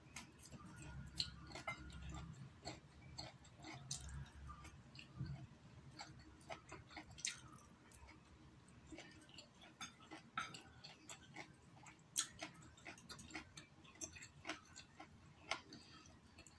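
Faint, close chewing and mouth sounds of a person eating instant noodles, with many small irregular clicks and smacks.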